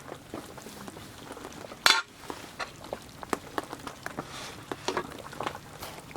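Cookware and utensils being handled: scattered small clinks and clatters, with one much louder, sharp clack about two seconds in.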